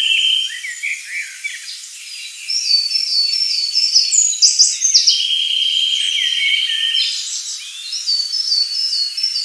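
Birdsong: several birds chirping, with a buzzy trill lasting about two seconds and runs of short repeated whistled notes; the same trill and note run come round again about halfway through.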